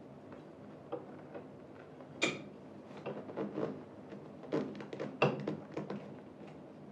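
Scattered knocks and clicks of gaming-chair parts and screws being handled and fitted during assembly. The two loudest knocks come about two and five seconds in.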